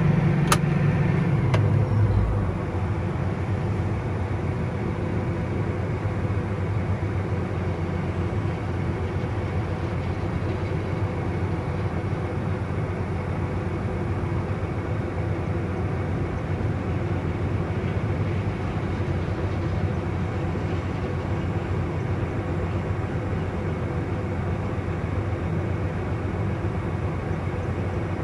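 Truck engine running steadily while driving off in a harvest field. Its note drops about two seconds in, and a few sharp clicks come near the start.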